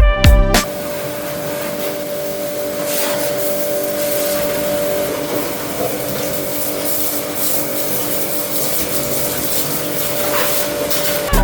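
A motor running steadily under a hissing rush, with a constant hum.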